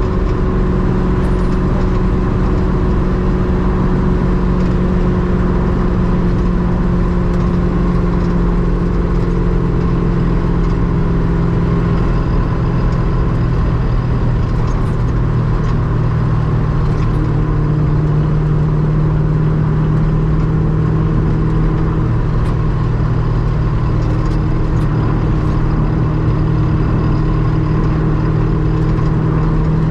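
Ultima RS kit car's GM LS V8 engine running steadily under way, its pitch shifting slightly a couple of times.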